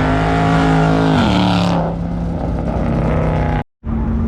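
Car engine running at high revs, dropping in pitch about a second in and then running steady at lower revs. A short dead gap near the end, where the footage is cut.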